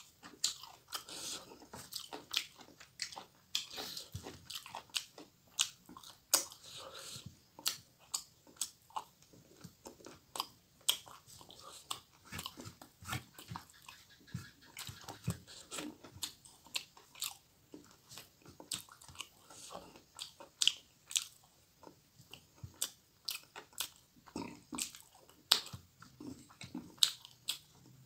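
A person chewing and eating by hand: a steady run of short, sharp mouth clicks and lip smacks, several a second.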